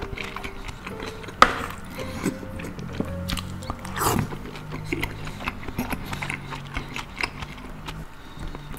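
Close-miked chewing and wet slurping of a spicy raw salmon and shrimp salad, with many short crunchy clicks and a sharp click about a second and a half in. A slurp comes as a forkful goes into the mouth around four seconds. Background music plays underneath.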